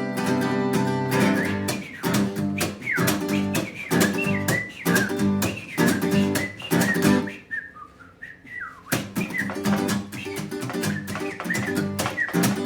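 Strummed acoustic guitar with a whistled melody over it. A little past the middle the guitar drops away for about a second, leaving the whistling nearly alone, then the strumming comes back.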